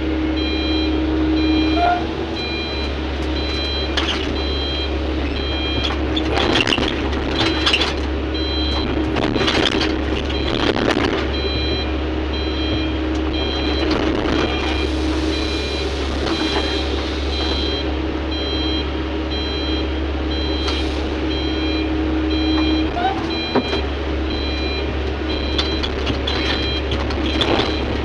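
Heavy mining equipment's diesel engine running with a steady low hum, while a warning alarm beeps over and over in an even rhythm.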